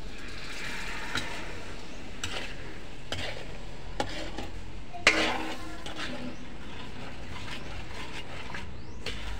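A metal ladle stirring sugar into coconut milk in a metal wok, scraping and knocking against the pan now and then, over a steady hiss from the heated pan. The loudest knock comes about halfway through.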